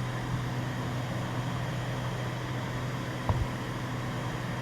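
Cessna 206 Stationair's engine and propeller droning steadily in flight, a constant low hum under an even cabin noise, with one brief low thump about three seconds in.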